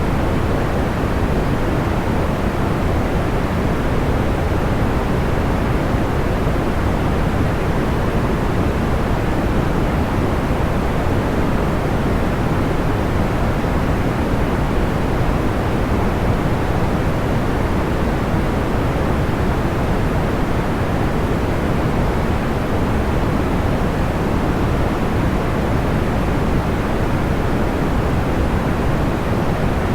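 Steady, unbroken deep noise with the highs rolled off, like pink or brown noise, even throughout with no crackles or pops standing out.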